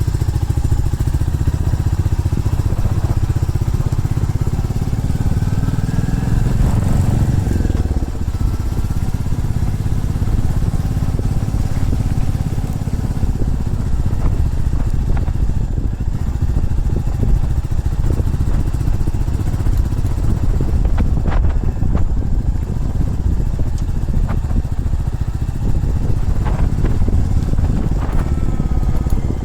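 Motorcycle engine running under way with a steady low rumble, its pitch rising over a few seconds and dropping back sharply about eight seconds in. A few sharp clicks come later on.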